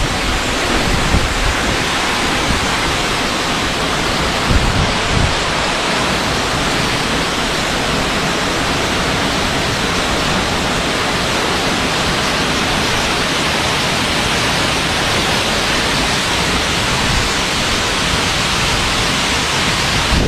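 Waterfall pouring steadily at close range: a loud, even rush of falling water.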